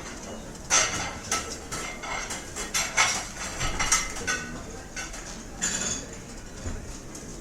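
Restaurant ambience: dishes and cutlery clinking and clattering in a busy run of sharp knocks over a steady background hum of the room.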